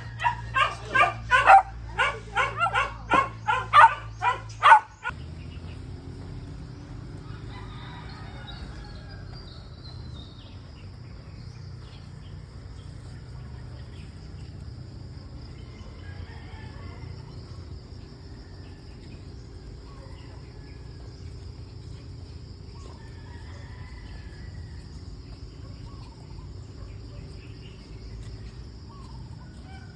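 A dog barking rapidly, about a dozen barks in five seconds, then it cuts off and roosters crow faintly and repeatedly over a steady high-pitched whine.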